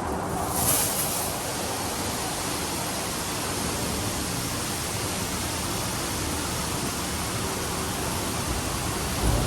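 Automatic gantry car wash spraying water over a car: a steady, even rushing hiss of water jets hitting the bodywork, which gets brighter about half a second in.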